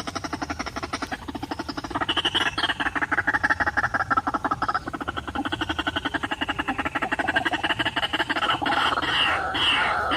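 White-breasted waterhen (ruak-ruak) calling: a fast, unbroken run of guttural croaking notes, growing louder and breaking into more separate notes near the end.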